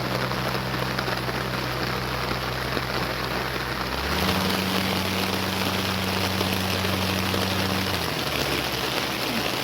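Steady rain falling and pattering on the ground, with a steady low hum underneath that shifts in pitch about four seconds in and again near eight seconds.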